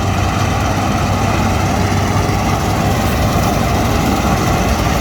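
Large diesel farm machinery running steadily, a constant low engine hum with no change in pitch.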